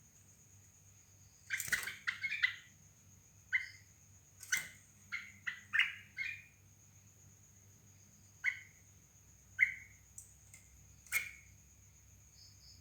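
Sooty-headed bulbul calls: short chirping notes given irregularly, some in quick runs, with a few sharp clicks in between and a faint steady high tone underneath.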